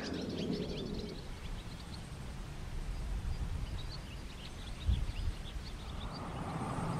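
Small birds chirping faintly and often, over a low rumble that swells near the end.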